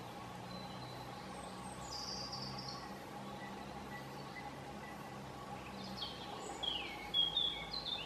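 Wild birds singing in woodland: a short high whistled phrase about two seconds in, then a louder run of high, sliding notes in the last two seconds, over a steady faint hum.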